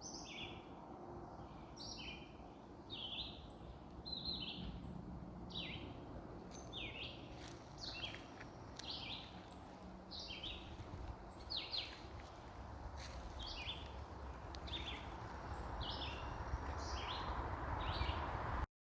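A bird calling over and over, short high notes about once a second, over a low steady rumble that grows louder near the end. The sound cuts off abruptly just before the end.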